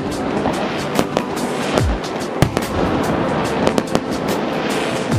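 Fireworks display: aerial shells bursting with deep booms, amid many sharp crackling reports.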